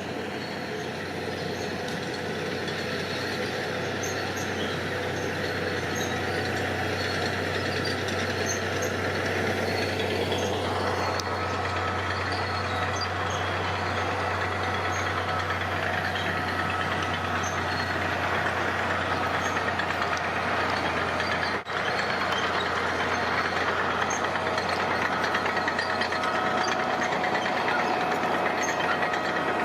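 Heavy diesel construction machinery running steadily, with a short break about two-thirds of the way through.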